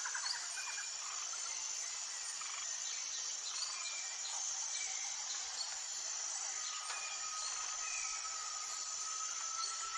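Wild birdsong over a steady high insect drone: short scattered bird chirps and whistles, and one long held whistled note starting about two thirds of the way in.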